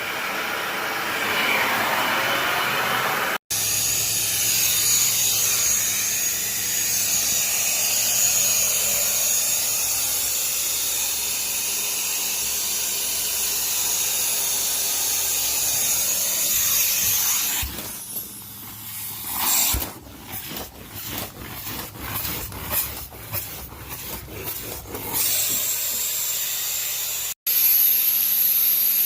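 Carpet-cleaning equipment running with a steady hiss. For a few seconds in the second half it breaks into repeated strokes, about one or two a second.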